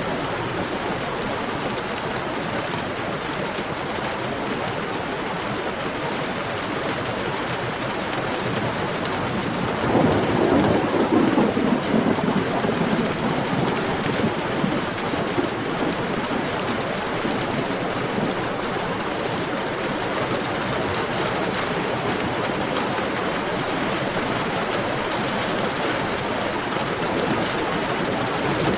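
Heavy steady rain, with a low rumble of thunder about ten seconds in that swells and fades away over a few seconds.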